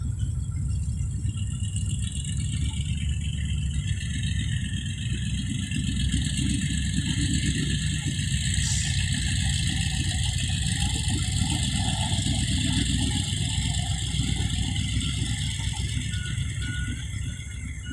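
Diesel dump truck engine running steadily, getting a little louder through the middle and easing off near the end.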